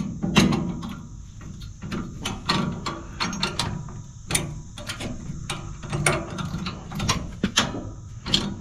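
Irregular metal clicks and clanks of hand work on a tractor's three-point hitch stabilizer arm and its pins.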